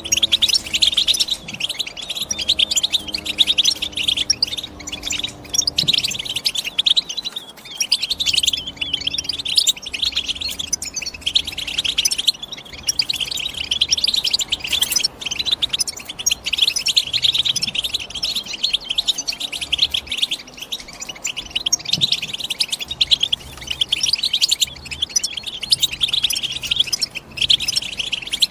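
European goldfinch song: a dense, fast run of twittering chirps, with a few short breaks.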